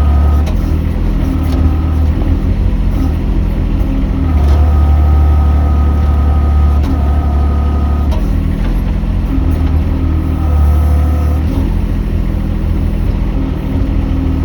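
Mini excavator's engine running under load, its note and a whine above it swelling for spells of a few seconds and settling in between as the machine works, with a few light clanks.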